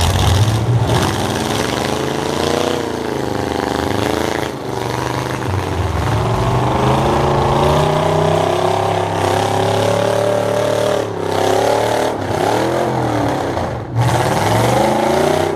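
Demolition-derby stock truck engines revving hard, the pitch climbing and falling again and again as the trucks accelerate and back off.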